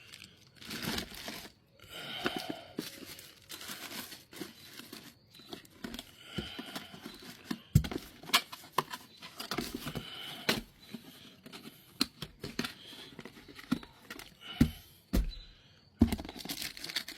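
Engine rebuild kit packaging crinkling and tearing as the parts and gasket packets are handled and unpacked, with scattered sharp clicks and knocks of parts being picked up and set down.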